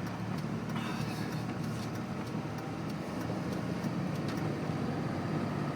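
Inside the cab of a 2005 Dodge Ram 2500 on the move: the Cummins 5.9 L inline-six turbo diesel running steadily at cruise, with a low even drone and road noise.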